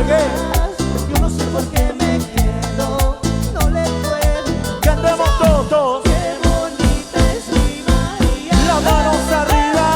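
Cumbia band playing live: a steady dance beat with bass under a melodic lead line that bends in pitch.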